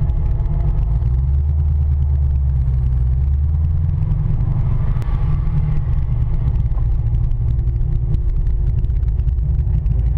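Cammed 7.0-litre LS7 V8 of a C6 Corvette Z06, with long-tube headers and an X-pipe, idling with a steady deep sound, heard from inside the cabin while the car rolls slowly.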